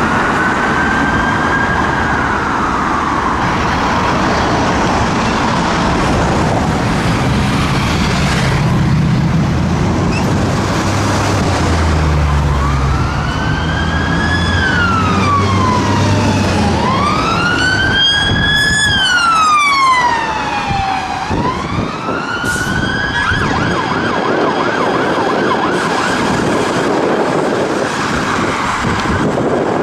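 Police van siren on wail, sweeping slowly up and down over road traffic noise. It is faint at first and loudest in the middle, where a few long rising and falling wails sound, with an engine rumbling under them for a few seconds.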